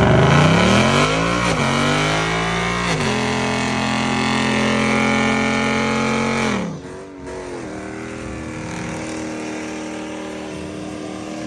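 Car engine revved hard: it climbs twice in the first three seconds, is held at high revs for a few seconds, drops sharply about six and a half seconds in, then is held at a lower steady rev.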